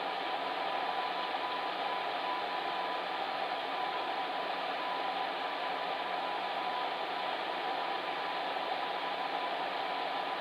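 Electric fan heater running steadily: an even whooshing rush of blown air with a faint constant hum underneath.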